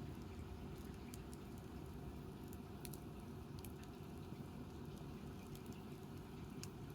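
Wood campfire burning: a steady low rumble of flame with a few sharp crackles and pops scattered through.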